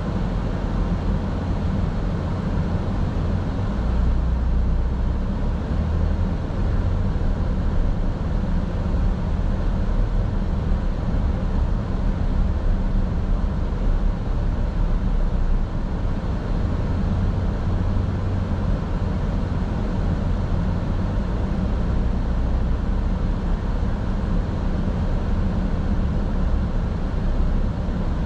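Steady low rumble of a car driving, with road and engine noise heard inside the cabin.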